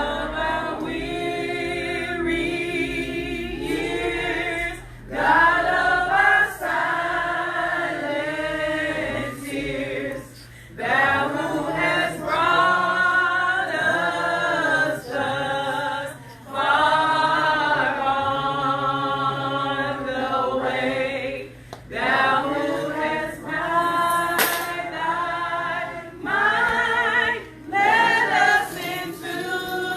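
A group singing together a cappella, in phrases a few seconds long with short breaks between them and no instruments.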